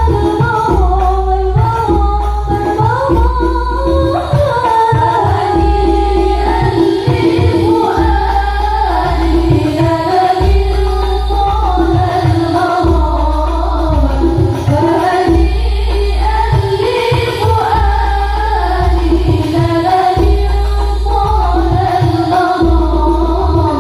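Hadroh ensemble: rebana frame drums beating a steady rhythm under a woman singing an ornamented sholawat melody.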